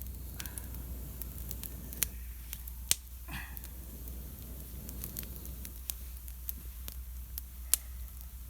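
Campfire of damp wood crackling with scattered sharp pops, three louder snaps about two, three and nearly eight seconds in.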